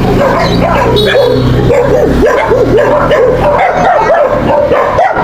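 Dogs yipping and whining in a continuous run of short, rising-and-falling cries, two or three a second.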